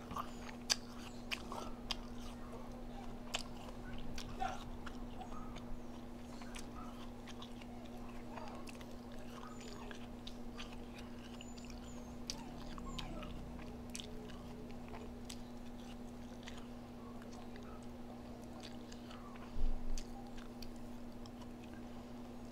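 Close-miked eating: chewing and biting with many small crunchy clicks, over a steady low hum. One louder thump near the end.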